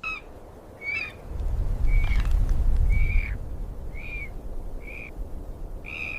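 A bird calling over and over, short squawking notes about once a second, over a deep low rumble that swells loudest between about one and a half and three seconds in.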